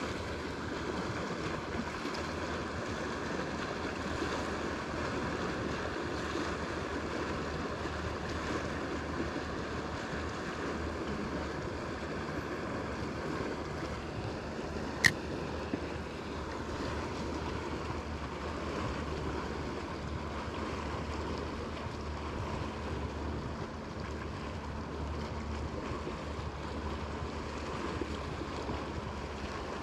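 Steady rushing of wind and lake water around a fishing boat on open water, with a single sharp click about halfway through.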